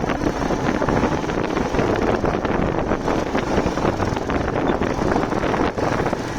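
Wind rushing over the microphone of a moving motorcycle, a steady blustery noise with the bike's engine running underneath.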